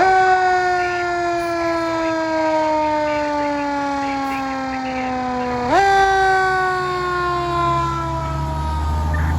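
Emergency vehicle siren wailing: it sweeps up sharply, winds slowly down for about six seconds, sweeps up again and winds down once more. A deep engine rumble comes in near the end.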